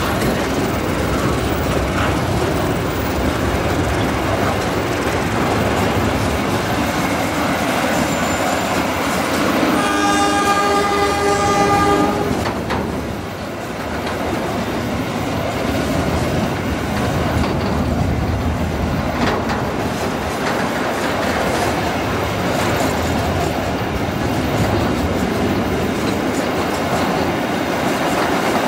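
Freight train of bulk-cement tank wagons rolling past: a steady rumble and clatter of steel wheels on the rails. The diesel locomotive's horn sounds one blast of about two seconds near the middle.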